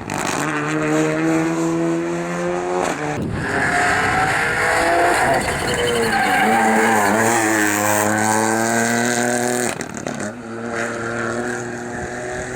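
Rally cars at speed on a tarmac stage, engines revving hard with the pitch rising and dropping through gear changes and braking, one car after another with abrupt changes at about three and ten seconds in. A few seconds in, a hiss of tyre squeal rises over the engine.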